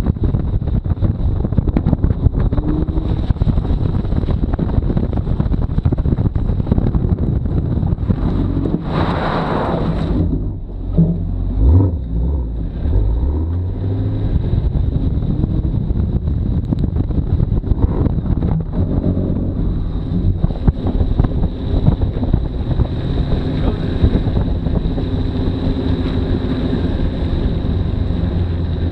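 Chevrolet Camaro ZL1 1LE's supercharged V8 driven hard on a wet autocross course, its note rising and falling with the throttle, under heavy wind buffeting on the microphone. A brief hissing rush about nine seconds in, then the engine pitch shifts as the driver gets back on and off the throttle.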